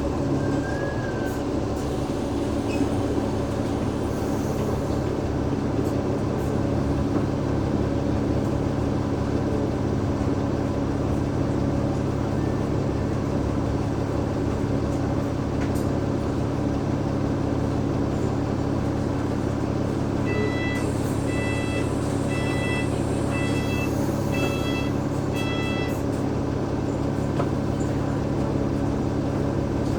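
Cummins ISL8.9 diesel engine of an Alexander Dennis Enviro500 MMC double-decker bus running steadily at a constant pitch, heard from inside the bus. About two-thirds of the way through, a run of short electronic beeps sounds for a few seconds.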